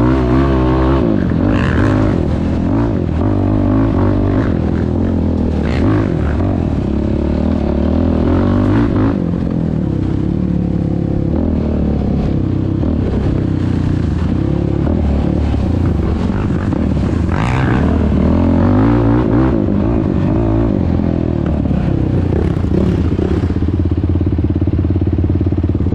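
Yamaha YFZ450R quad's single-cylinder four-stroke engine, fitted with a Rossier R5 aftermarket exhaust, revving up and down continuously as the quad is ridden.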